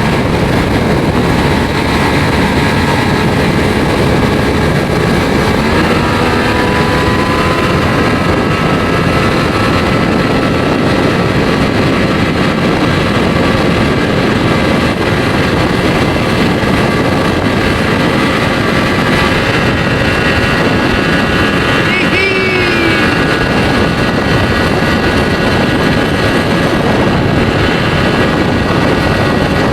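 1992 Johnson 60 hp two-stroke outboard motor running steadily, driving the boat under way. It runs clean and even after its carburettor repair, with the mixture screw set about one and a half turns out.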